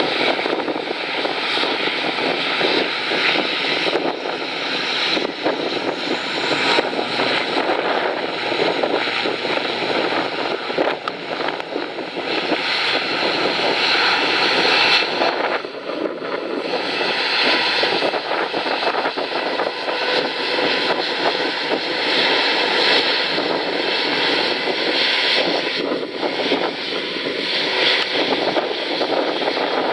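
ATR 72-600 turboprop's twin Pratt & Whitney PW127M engines and propellers at takeoff power, heard close: a loud, steady roar that holds its level throughout.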